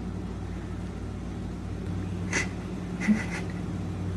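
Steady low hum of a running motor, with two brief faint sounds about two and three seconds in.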